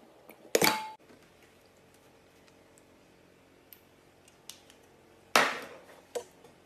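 Hard objects knocking and clinking together: a sharp clink with a brief ringing tone about half a second in, a louder knock about five seconds in followed by a smaller one, and faint ticks between.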